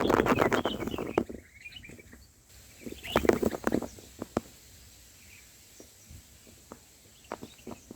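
Rustling and scraping at a bulbul nest, with a few faint bird chirps. A dense burst of rustling lasts about the first second, another comes about three seconds in, and then there are scattered single clicks.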